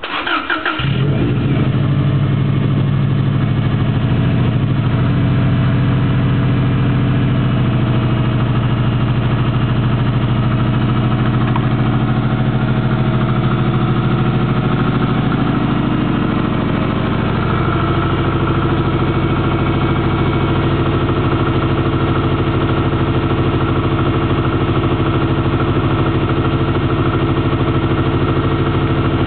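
Subaru Impreza WRX turbocharged flat-four engine starting from cold: it catches in the first second, then runs at a steady fast idle. About halfway through, the idle drops slightly lower.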